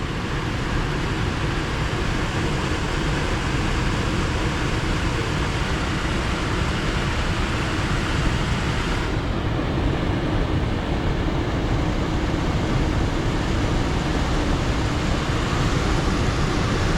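Air handler's X13 blower motor running steadily, air rushing through the unit while its 10 kW electric heat strips are energized on a jumpered heat call. The hiss dulls slightly about nine seconds in.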